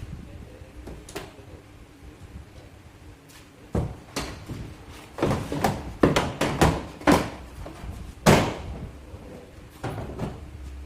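An irregular run of sharp knocks on a car's sheet-metal body, about a dozen over five seconds, the loudest near the end, during repair of dented bodywork.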